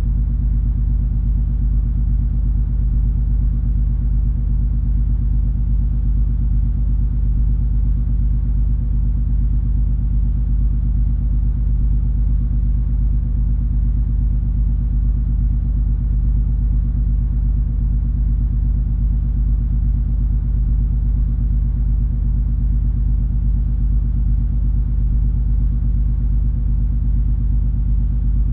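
Steady low drone of the cruise ferry MS Color Magic under way, a deep rumble with a constant low hum and nothing rising or falling.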